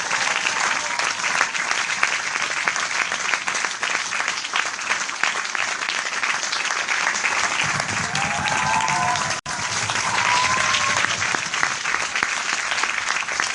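Crowd applauding, a dense steady patter of many hands clapping, with a momentary dropout about nine and a half seconds in.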